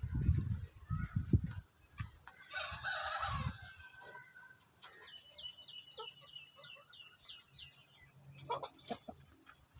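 Kampung (village) chickens: a rooster crows about two and a half seconds in, and later a run of short high chirps and a few sharp clucks follow. Low thumps sound in the first second and a half.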